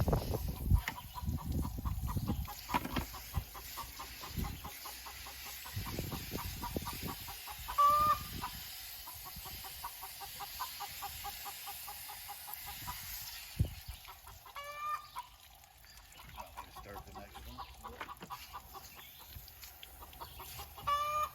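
Chickens clucking in a long run of quick, short notes, with a longer drawn-out call about a third of the way in, another past the middle and one near the end. A few dull low thumps in the first seconds.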